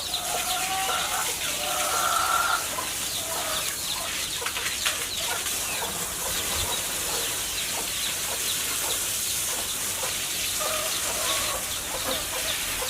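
Chickens clucking and calling, with drawn-out calls in the first few seconds and many short high chirps throughout.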